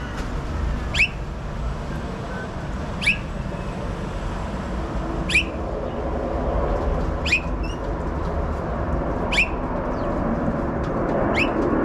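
A bird giving a short, sharp call about every two seconds, six times, over a steady background rumble that swells near the end.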